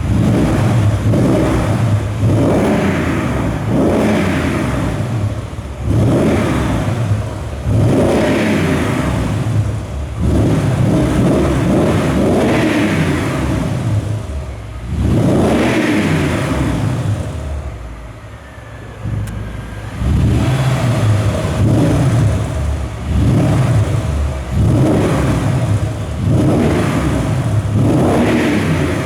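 Mercedes GL450's V8 revved in quick blips through an aftermarket tuned exhaust, each rev rising and dropping back. The blips come about one every second and a half, with one longer rev a little past the middle and a short settle to idle after it.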